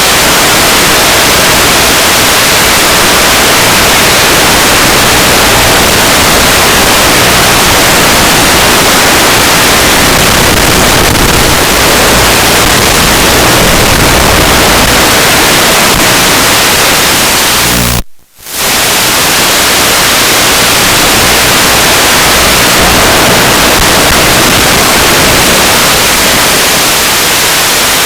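Loud, steady hiss of static from an analog FPV video link's receiver, dropping out briefly about 18 seconds in.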